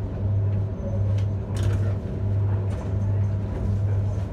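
Steady low electric hum inside a commuter train carriage, swelling and dipping about once a second, with a few light clicks, while the train stands at or creeps along a station platform.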